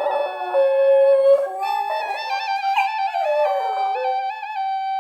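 A dog howling along with a wind instrument. The instrument holds long notes broken by quick trills, while the dog's wavering howls slide downward in pitch, once near the start and again past the middle.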